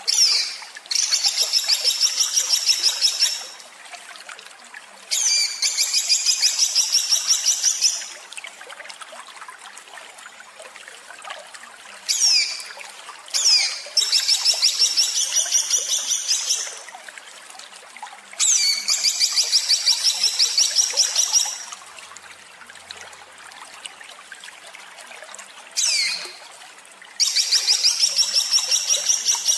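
A songbird's harsh, rapid-fire 'tembakan' song: five bouts, each opening with a quick falling whistle and then a fast rattling string of harsh notes, about six a second, lasting two to three seconds.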